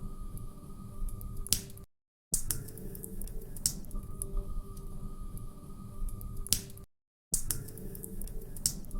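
Log fire crackling, with sharp scattered pops over a low rumble. The same few seconds repeat as a loop, broken twice by a brief cut to dead silence about five seconds apart.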